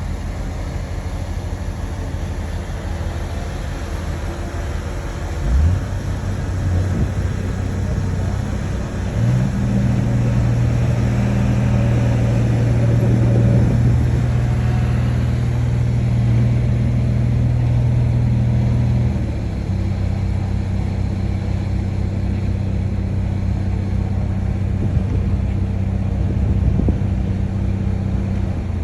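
Heavy diesel engine of earthmoving machinery running. Its speed steps up about five seconds in and again about nine seconds in, holds high and loudest until about nineteen seconds, then drops back to a lower steady speed.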